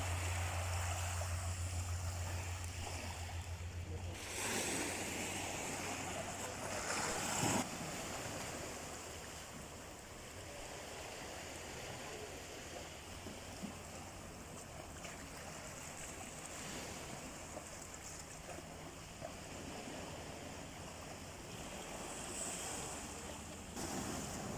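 Sea waves washing on the shore, with two louder surges in the first eight seconds and a steadier wash after. A low steady hum stops about four seconds in.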